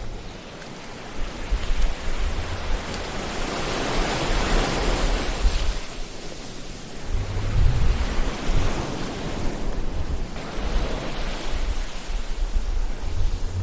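Ocean surf: waves washing in and drawing back as a steady hiss that swells to a peak about four seconds in, with another low, rumbling surge about halfway through.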